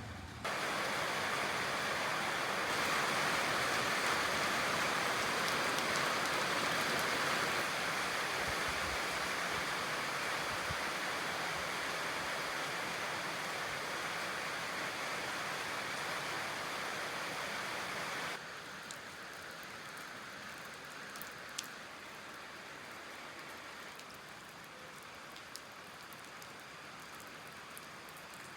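Steady rain falling, a dense even hiss. About two-thirds of the way through it drops suddenly to softer rain, with a few separate drops ticking.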